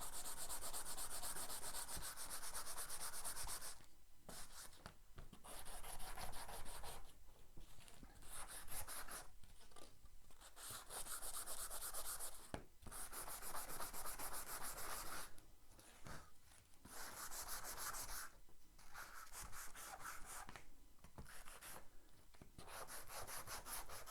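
Hand sanding the varnish off a wooden coat hanger with a sanding block: quick back-and-forth scraping strokes in spells of a few seconds, with short pauses between them.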